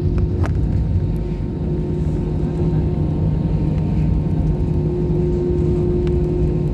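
Steady drone of an airliner cabin: engine and air noise with a constant low hum and a few faint clicks.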